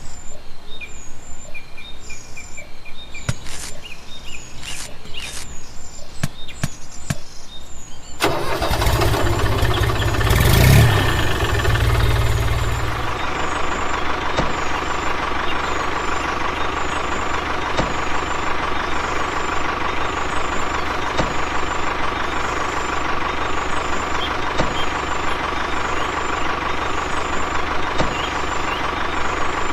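Several sharp knocks and clicks, then about eight seconds in an engine starts abruptly, surges with a deep rumble, and settles into steady running with a constant high whine.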